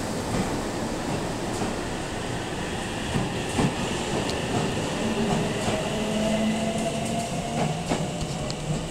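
Electric multiple-unit train rolling past along a station platform, its wheels clacking over rail joints with a steady rumble. Steady tones join in from about five seconds in, as the train runs in to stop.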